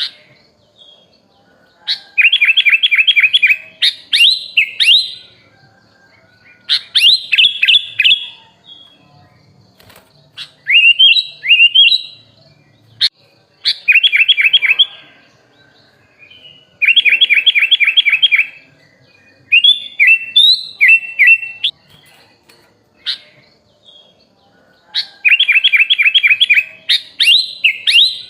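Sooty-headed bulbul (kutilang) singing in short bursts. Each burst is a quick run of rapidly repeated notes or a few rising whistled notes, coming every two to three seconds with brief quiet gaps between.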